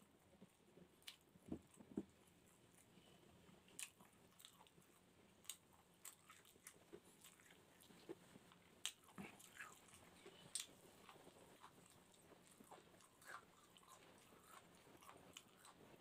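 Faint close-up chewing of rice and barbecued chicken, with irregular sharp mouth clicks and smacks.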